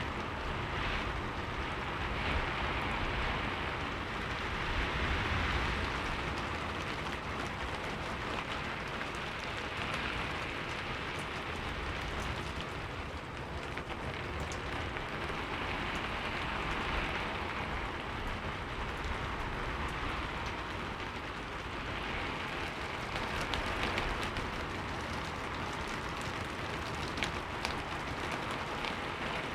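Heavy rain falling steadily: a dense hiss that swells and eases every few seconds, with a low rumble underneath and a few sharp drips.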